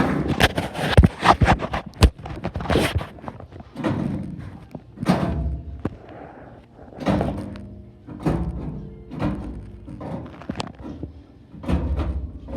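A series of knocks and thuds, irregular and repeated, with music playing.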